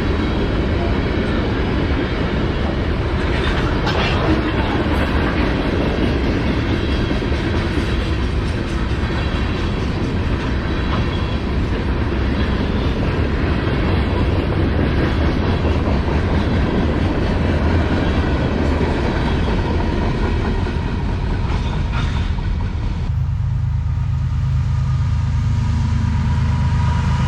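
CSX manifest freight train rolling past, its cars rumbling with a clickety-clack of wheels over the rail joints. About 23 seconds in, the train noise gives way abruptly to a low steady hum.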